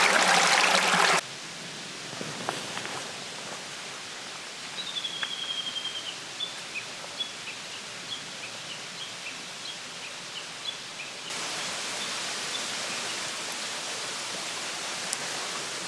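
A rushing mountain stream cuts off about a second in, giving way to quieter woodland where a songbird sings one long, slightly falling whistle followed by a string of short chirps. About eleven seconds in, another cut brings in a steady rushing noise.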